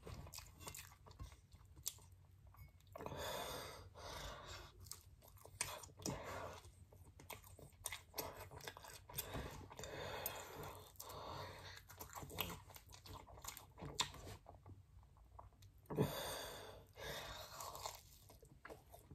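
A person chewing and biting pizza close to the microphone: a run of crunchy bites and wet mouth clicks with short pauses between, with one sharp click about sixteen seconds in.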